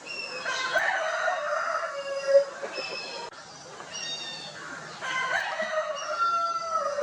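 Rooster crowing twice, each crow about two seconds long. Short high-pitched calls sound between the crows.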